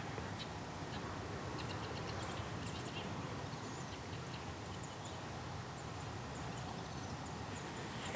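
Outdoor woodland ambience: a steady low background hiss and rumble with faint, high, short bird chirps scattered through, more of them in the second half.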